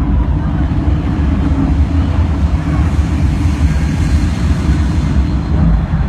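Loud, steady low rumble through an arena concert sound system.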